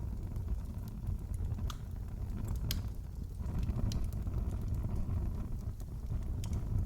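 Wood fire crackling in a fireplace: a steady low rumble of the flames with a few sharp pops scattered a second or more apart.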